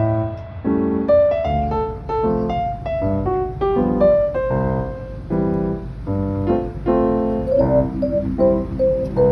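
Background piano music: a gentle melody over repeated chords.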